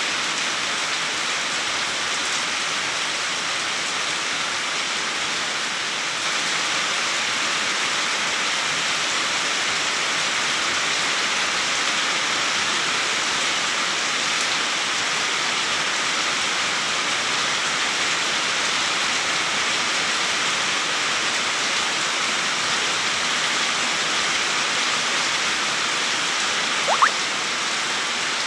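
Steady, even rain falling without let-up. Near the end a single brief rising squeak sounds over it.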